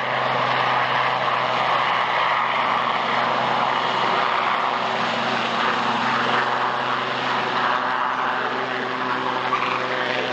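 Aircraft engine noise from a flying display: a steady drone with a low hum and a broad rushing noise that stays even throughout.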